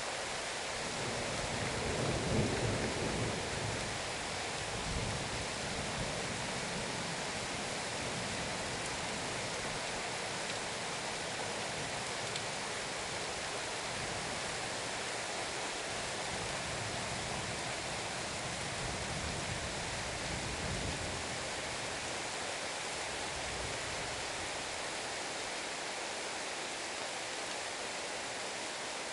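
Heavy rain falling steadily in a thunderstorm, with thunder rumbling low. The loudest roll comes about two seconds in, and fainter rumbles follow now and then.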